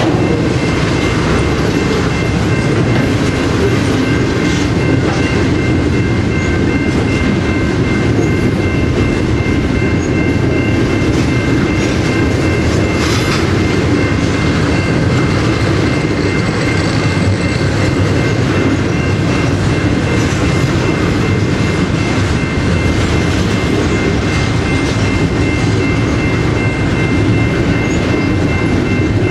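A train rolling by on the track: a loud, steady rumble of railcars that does not let up, with a few faint steady high tones above it.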